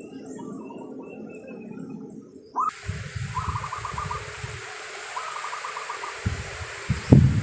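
Background music ends about two and a half seconds in, cut straight into zebra dove (perkutut) calls. Each call is a short burst of rapid staccato coos, and the calls repeat every couple of seconds. Low rumbling wind or handling noise runs under them, with a couple of thumps near the end.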